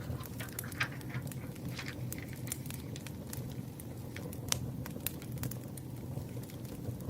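Campfire crackling: irregular sharp pops and snaps over a steady low rumble of burning wood, one snap about four and a half seconds in standing out above the rest.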